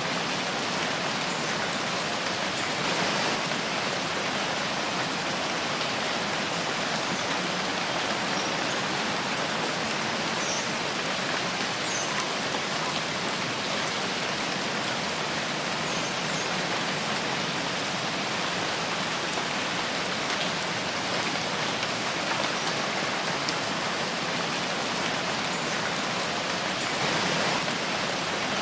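Steady rain falling in a forest: a dense, even hiss of many drops, swelling slightly near the end.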